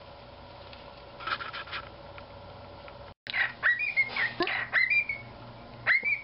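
Small pet parrot chirping and whistling: a run of short, sharp calls with quick pitch sweeps and a few briefly held notes, starting about halfway through. Before the calls there is only faint room hum with a short rustle.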